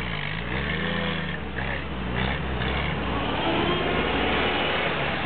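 Engines of a WWII Willys jeep and a Volkswagen Kübelwagen running as the vehicles drive off. One engine's pitch rises and falls in the first few seconds, then the running turns steadier and rougher.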